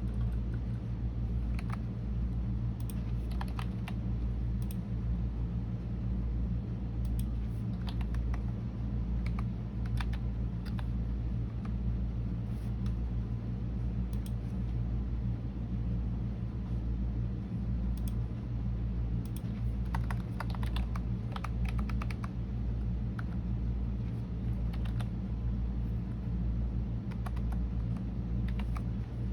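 Typing on a computer keyboard: clusters of key clicks in short runs, with pauses of a few seconds between them. A steady low hum runs underneath.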